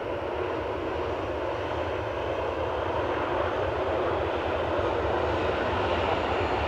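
Airliner engines running, a steady rumble that grows slightly louder, as an aircraft at the airport powers up for its takeoff.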